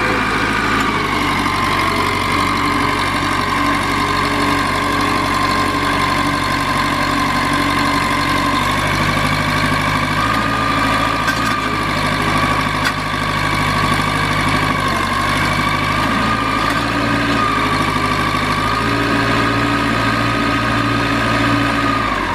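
Case DH4 articulated trencher backhoe's engine running steadily at idle, with a steady whine over it that dips and rises slightly in pitch a few times.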